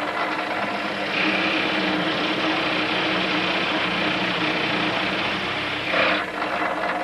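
Electric drill running for about five seconds, boring holes through a wooden canoe keelson, then stopping, over a steady machine hum.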